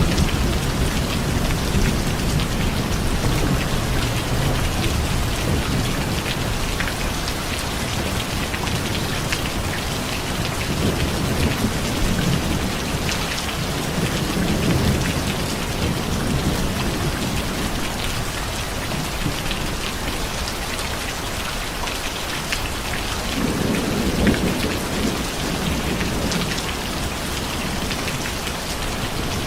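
Steady heavy rain falling on surfaces, with low rumbles of thunder swelling and fading several times: one near the start, a few midway and one late.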